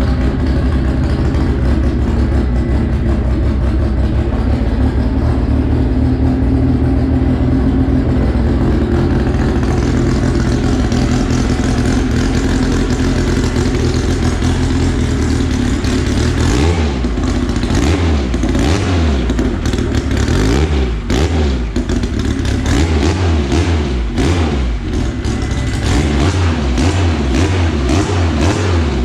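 Car engine, freshly rebuilt after an exhaust valve failure, running at a steady idle, then from about halfway through revved in repeated throttle blips with sharp pops and crackles.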